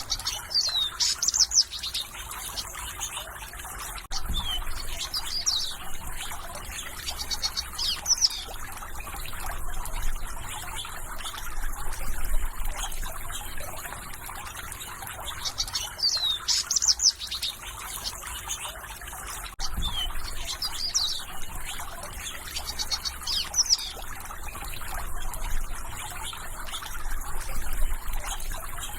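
Songbirds singing short, high chirping and trilling phrases, over a steady background trickle of running water.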